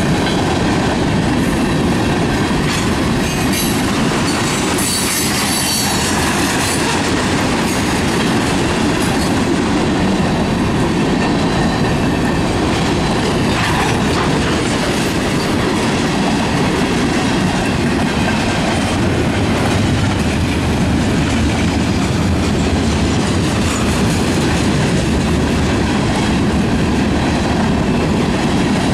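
Cars of a manifest freight train rolling past close by: a steady loud rumble of steel wheels on rail with clacking over the rail joints, and a brief high-pitched wheel squeal about five seconds in.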